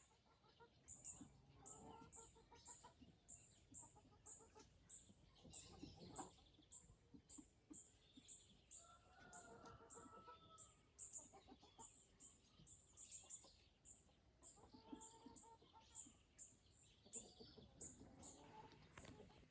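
Chickens clucking softly, with a steady run of short high chirps, about two or three a second.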